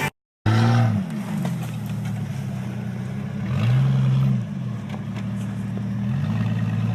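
Small vehicle engine running and revving: it drops back about a second in, revs up again midway, eases off, then picks up again near the end and holds.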